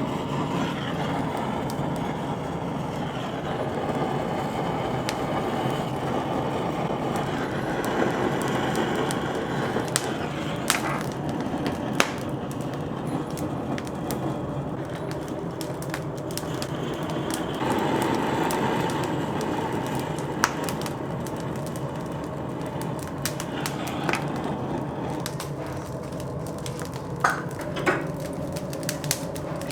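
Oak wood fire burning, a steady hiss with a few sharp cracks and pops now and then.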